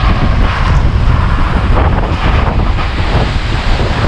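Strong typhoon wind buffeting the microphone: a loud, steady rushing with heavy low rumble.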